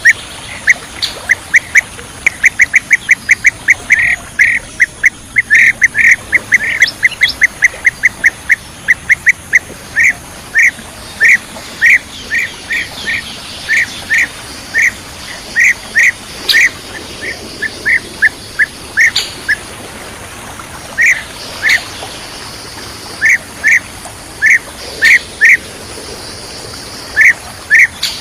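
Blue-tailed bee-eater (kirik-kirik laut) calling: a long series of short, sharp notes, fast runs of several a second in the first half, then spaced out to one or two a second. Fainter, higher-pitched calls of other birds sound behind it.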